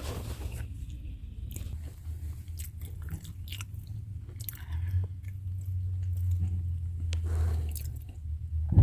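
Close-up chewing and biting of crunchy food, with scattered crackles, over the low steady hum of a car engine idling, which grows a little louder about halfway through.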